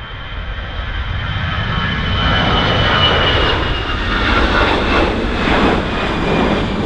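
Jet noise from an Airbus A319's CFM56 turbofans at go-around power, building over the first two seconds and then loud and steady, with a high engine whine that drops slightly in pitch as the aircraft passes.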